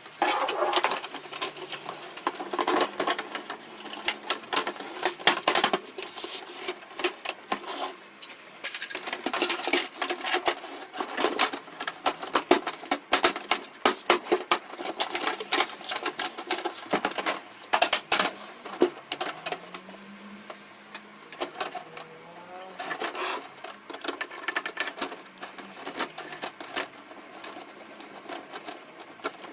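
Irregular clicking and clattering from the parts of a Canon MF4018 laser printer, with a faint low hum underneath.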